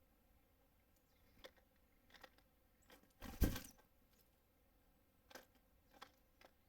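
Small birds at a feeder: a handful of sharp taps and knocks as they land and peck, with one louder thump about halfway through.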